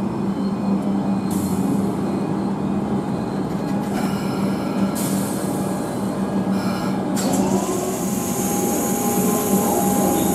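Comeng electric suburban train running along the station platform, a steady rumble of wheels and running gear with a low hum. About seven seconds in, a high squeal rises and then holds steady.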